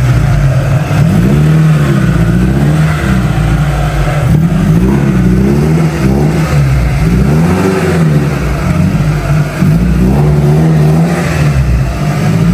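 1997 Toyota Tacoma pickup's engine running through its aftermarket exhaust, the revs rising and falling again and again as the truck is driven slowly.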